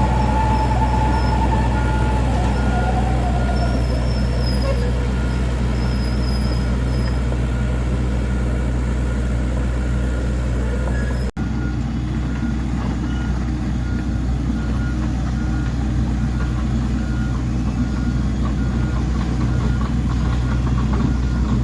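Dump truck's diesel engine running steadily, with a faint short beep repeating at an even pace.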